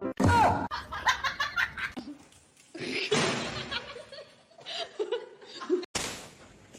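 A person laughing in a run of quick bursts, then laughing again more softly.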